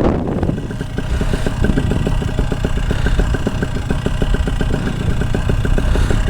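Paramotor engine idling steadily with an even, rapid pulse.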